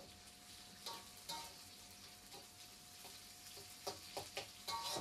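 Chopped garlic, shallots, chili and dried anchovies frying in hot oil, with a steady faint sizzle. A spatula stirs and scrapes the pan now and then, with quicker strokes near the end.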